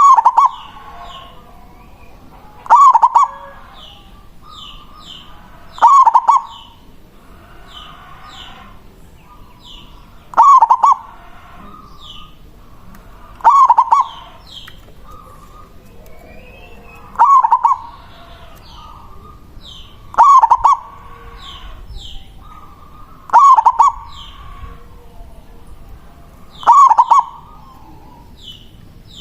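Zebra dove (perkutut) singing its cooing song: nine short, loud phrases, one every three to four seconds. Faint high chirps from other small birds sound in between.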